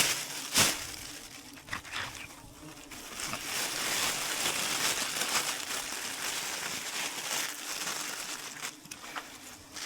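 Rustling and crinkling from handling material, with two sharp clicks in the first second, over a faint hum of wild bees buzzing around the harvested comb.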